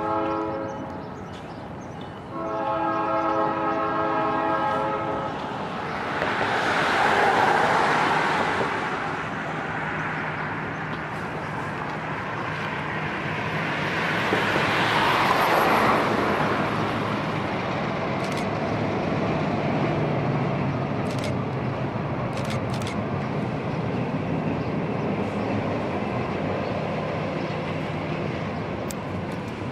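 Diesel locomotive of the Essex Terminal Railway local sounding its horn, a brief blast then a longer one, then the locomotive and its train rolling past with a steady engine drone and wheel noise that swells twice.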